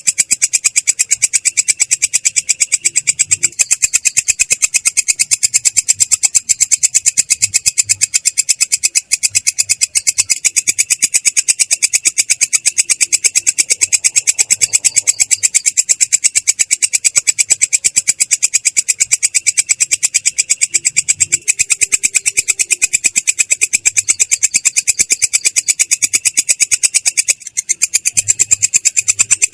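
Belalang kecek katydid singing a continuous rolling trill of very rapid, even pulses, high-pitched and coarse, with a brief break near the end.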